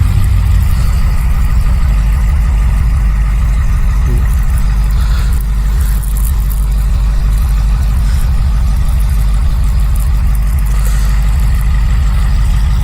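Blizzard wind of about 35 to 40 mph buffeting the microphone: a loud, steady, gusty low rumble with a hiss of blowing snow above it.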